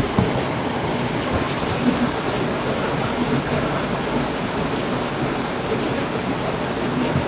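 Heavy rain falling steadily, with a few sharper taps of drops landing close by.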